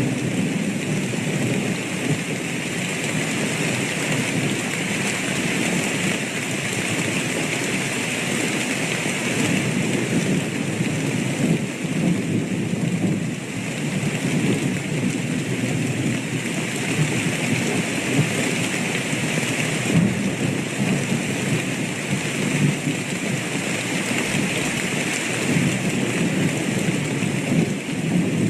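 Steady heavy rain with thunder rumbling, swelling and easing in slow waves.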